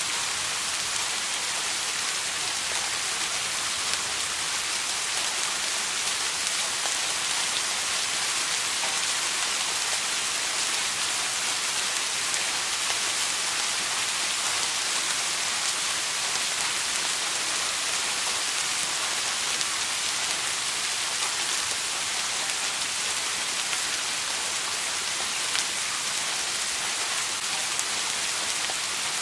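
Steady rain falling, a constant even hiss with fine drop patter.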